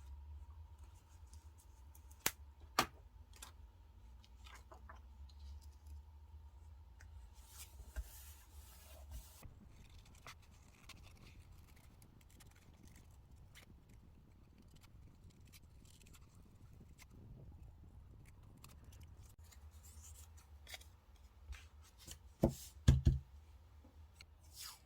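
Small scissors snipping paper or sticker sheets in a few separate sharp snips, the loudest pair near the end, with soft paper handling between.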